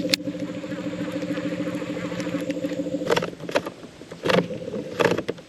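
Electric trolling motor running with a steady hum on a nearly flat battery, the motor barely turning. About three seconds in the hum fades and a few sharp knocks follow.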